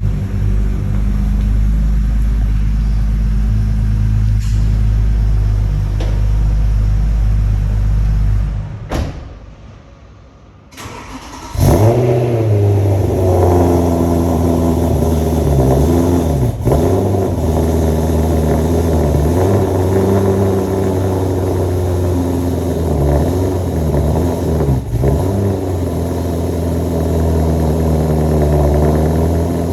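BMW E90 M3 V8 with a custom exhaust, idling steadily. It shuts off about nine seconds in, is restarted with a loud flare about two seconds later, and settles back into idle.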